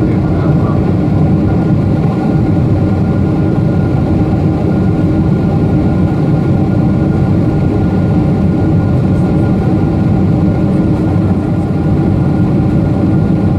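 Boeing 747-8's GEnx-2B turbofan engines running steadily, heard inside the passenger cabin from a window seat: a loud, even noise with a faint steady whine on top.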